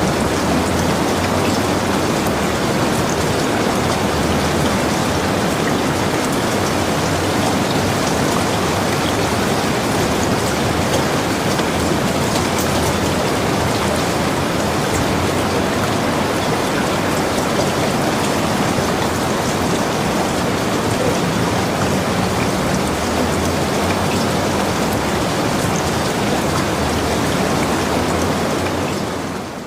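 Steady rain falling, a dense even hiss of drops, that fades out sharply right at the end.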